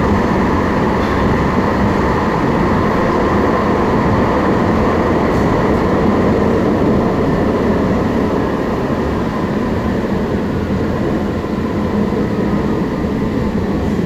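O-Train Confederation Line light-rail train running steadily, heard from inside the car: a steady rumble of wheels and running gear with a faint motor whine. It eases slightly near the end as the train slows for the station.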